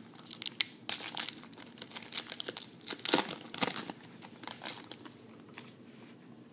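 Trading-card pack wrapper crinkling and tearing as a pack is opened, a dense run of crackles for about four seconds, then quieter handling.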